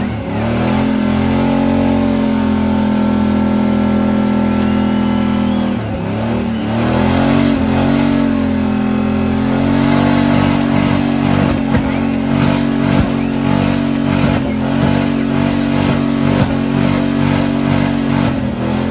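Car engine held at high revs during a burnout, the tyres spinning on the wetted pad. The revs dip briefly about six seconds in, then climb back and hold steady again.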